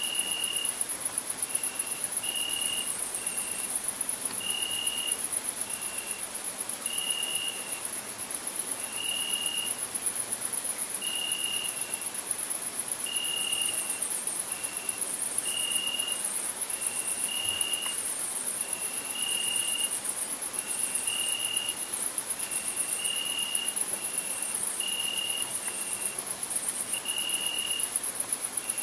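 Crickets chirping in a steady, very high, fast-pulsing trill. Over it, short whistled notes sound about once a second, alternating between two slightly different pitches.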